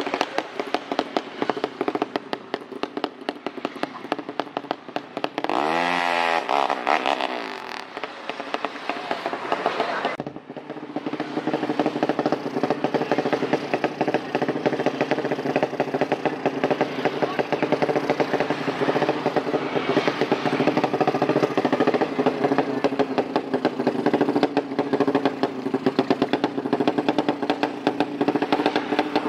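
Tuned drag-racing motorcycle engine running hard, with a quick rise in revs about six seconds in and a brief drop near ten seconds, then held at steady high revs.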